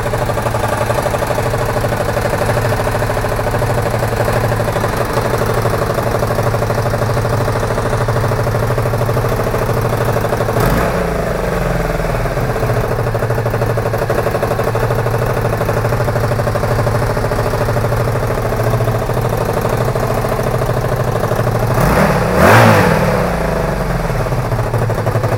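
Honda VF1000F2 Bol d'Or's V4 engine running steadily at idle on its first run after an engine transplant. About eleven seconds in the throttle is blipped briefly, and about twenty-two seconds in the revs rise and fall again.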